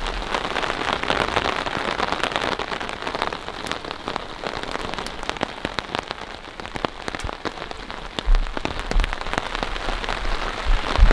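Steady rain falling, with many separate drops striking close by. A few low thumps come near the end.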